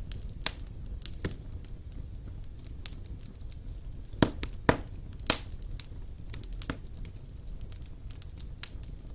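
Wood fire burning in a fireplace: a steady low rumble of flames with irregular sharp crackles and pops from the burning logs, three louder pops bunched together a little past the middle.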